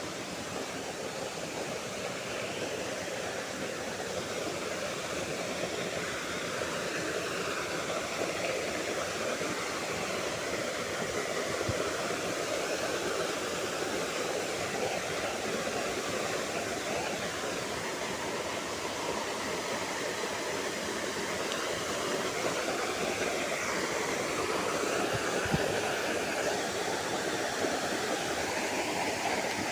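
Steady rush of river water flowing over rocks, with two brief knocks about midway and near the end.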